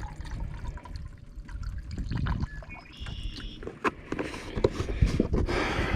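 Water trickling and pouring out of a badly leaking engine radiator, with scattered knocks and clicks.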